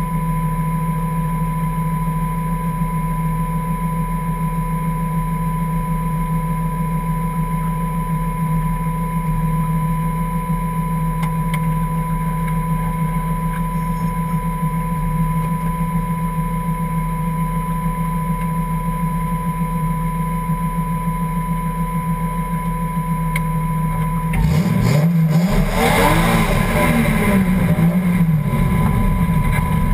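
Toyota 1JZ straight-six in a Ford Escort hillclimb car idling steadily, heard from inside the cockpit, with a steady high whine alongside. About 24 seconds in, the engine gets louder and its revs rise and fall as the car moves off.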